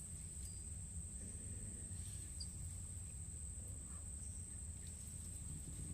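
Insects giving one steady, unbroken high-pitched drone over a low, steady rumble.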